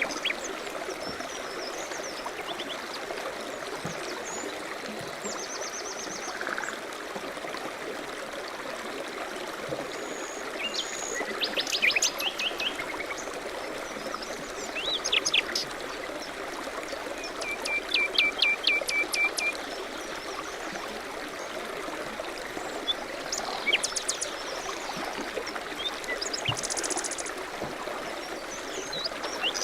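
Small birds chirping and trilling in short bursts every few seconds over the steady rush of a stream.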